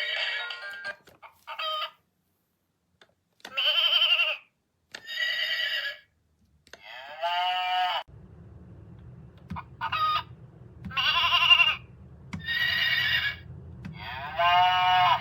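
Battat farm tractor toy playing recorded farm-animal calls through its small speaker: a string of short separate calls, each about a second long, with brief pauses between.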